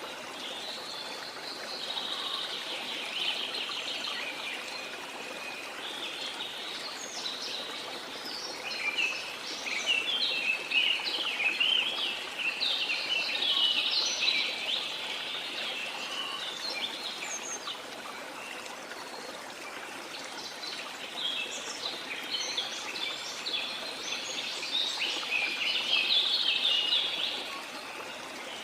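Many birds chirping and singing over the steady rush of falling water from a waterfall. The birdsong thickens in two stretches, one around the middle and one nearer the end.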